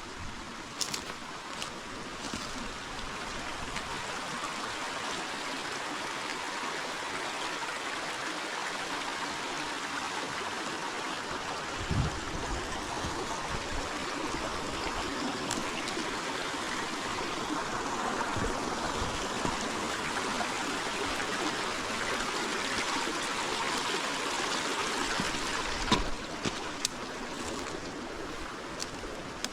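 River water flowing steadily, growing a little louder over the first few seconds. A few sharp clicks come near the start and again near the end.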